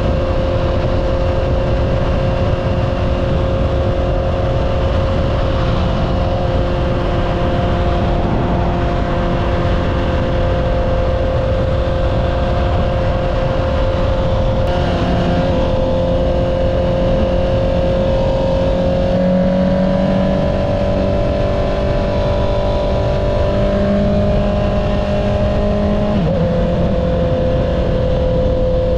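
Honda CBR650R's inline-four engine with an Akrapovic exhaust, running at steady cruising revs. It lifts slightly in pitch about two-thirds through and settles back near the end, over a steady rush of wind noise.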